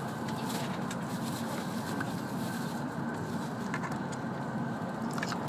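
Steady running noise inside the passenger cabin of a W7 series Hokuriku Shinkansen train in motion, with a few faint scattered clicks and one sharp click near the end.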